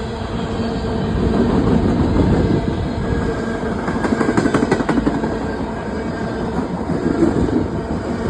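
Canadian Pacific train rolling past: a steady rumble of wheels on the rails, with a spell of sharper clatter about halfway through.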